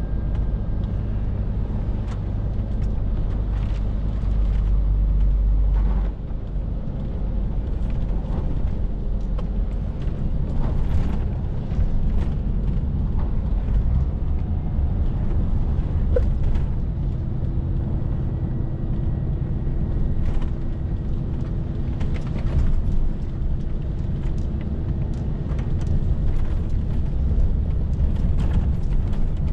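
Scania R450 lorry's 13-litre six-cylinder diesel engine running with the truck under way, a steady low rumble of engine and road noise with scattered light clicks and rattles. The rumble eases slightly about six seconds in.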